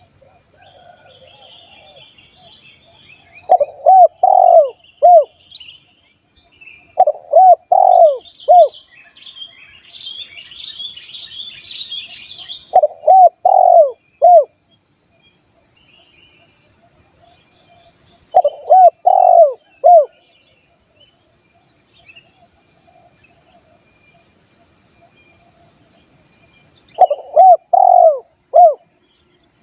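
Spotted dove cooing: five phrases of three or four low, clear notes, a few seconds apart, the lure call used to draw wild doves. Small birds twitter faintly and insects drone steadily in the background.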